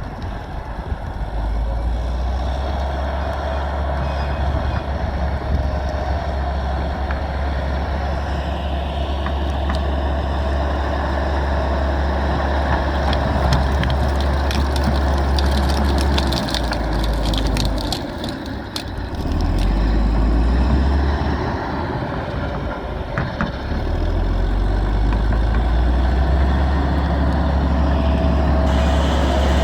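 Large bulldozer's diesel engine working under load while pushing over trees, with a run of cracking and snapping wood in the middle. The engine eases off briefly twice in the second half, then picks up again.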